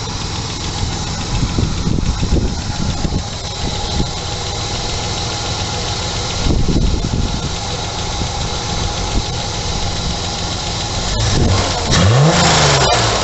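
Ford Granada's 2.3-litre V6 engine on its Solex EEIT carburettor idling steadily, then revved once near the end, its pitch rising and falling back.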